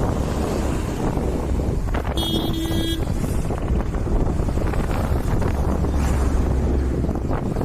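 Wind buffeting the microphone over a steady low rumble while riding a Yamaha motorcycle. A short steady tone sounds for under a second about two seconds in.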